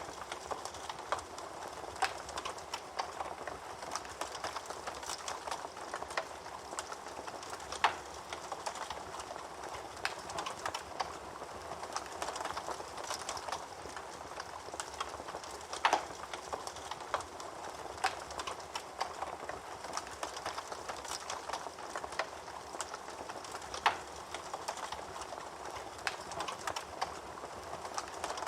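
Wood fire burning in a fireplace, crackling steadily with a hiss of flames and frequent small snaps, and a few louder pops: one right at the start and others about 8, 16 and 24 seconds in.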